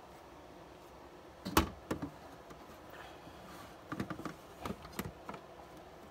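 Hard plastic knocks and clicks as a coffee maker's water reservoir is set back in place on the machine: one loud knock about a second and a half in, a lighter one just after, then a quick run of smaller clicks a few seconds later.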